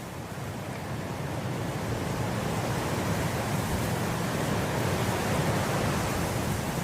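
Wind blowing through swaying grass, a steady noise that swells over the first few seconds and then holds.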